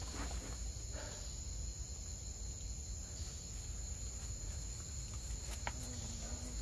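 Crickets chirring steadily at night, a continuous high-pitched trill, with a low rumble and a few faint soft clicks underneath.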